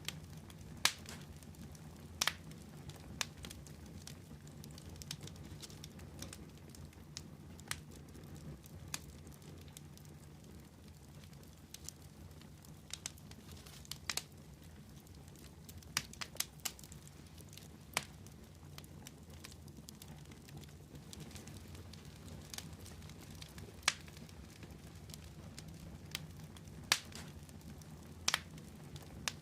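Fire crackling: sharp pops and snaps at irregular intervals over a steady low rumble of the flames.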